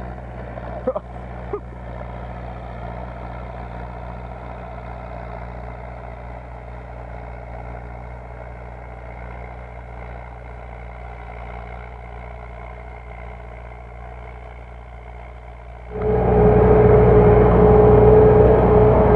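Belarus MTZ tractor's four-cylinder diesel engine running steadily while ploughing. Two sharp clicks come about a second in, and near the end the sound jumps suddenly much louder, with a steady high whine.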